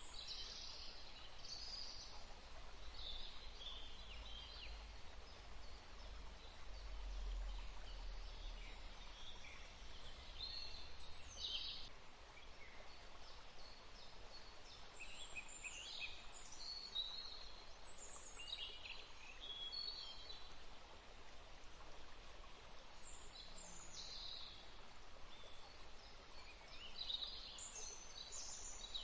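Songbirds chirping and singing in a dawn chorus: many short, high calls and trills from several birds, scattered irregularly, over a faint outdoor hiss. A low rumble sits under the first third.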